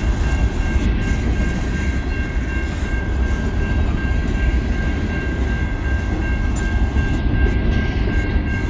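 Loaded coal train's freight cars rolling steadily past close by: a continuous heavy rumble of wheels on rail, with a thin, steady high ringing tone running over it.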